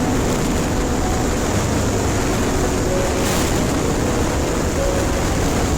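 Wind rushing over the rider's microphone while a Bajaj Pulsar NS200 single-cylinder motorcycle runs steadily underneath, with a brief hiss about three seconds in.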